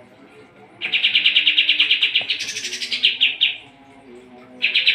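Kapas tembak songbird singing a fast, rattling trill that climbs higher midway and then drops, lasting about three seconds; a second trill begins near the end.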